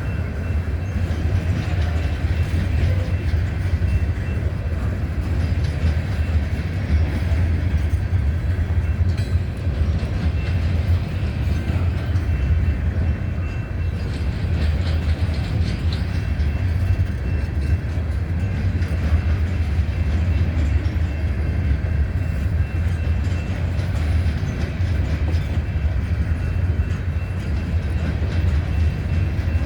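Freight train cars rolling past, a loud steady rumble of wheels on rail.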